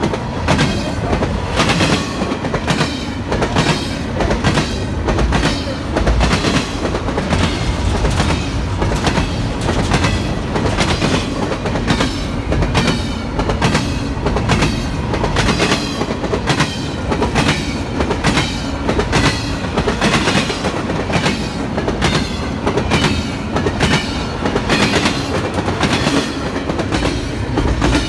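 Double-stack intermodal freight train's well cars rolling past, the wheels clacking on the track in a steady, repeating rhythm over a continuous rumble.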